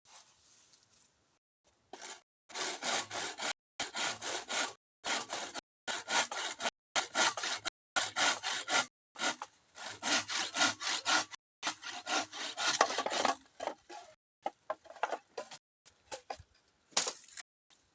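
Hand saw cutting through bamboo in runs of rapid back-and-forth strokes, with brief pauses between runs; the sawing stops near the end, leaving a few short scrapes.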